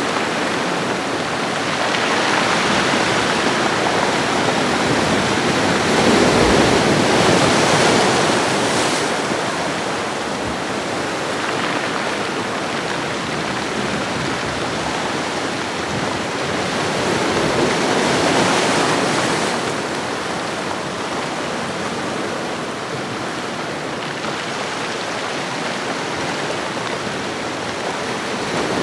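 Ocean waves washing on a shoreline: a steady rush of surf that swells twice, about two seconds in and again past the middle, then eases back.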